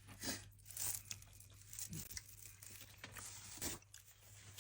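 Faint, scattered rustling and crinkling, a few soft bursts, over a low steady hum.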